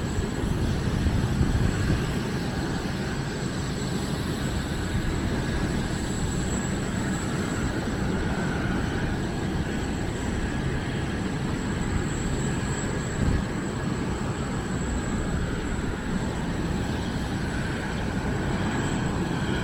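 Steady outdoor noise atop a Boeing 747-8, with wind buffeting the small camera's microphone held out of the escape hatch, under a continuous thin high-pitched whine.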